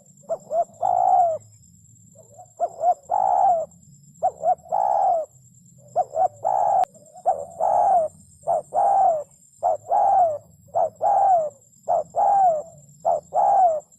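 Spotted dove cooing over and over: quick short notes, then a longer coo that falls in pitch, about one phrase a second.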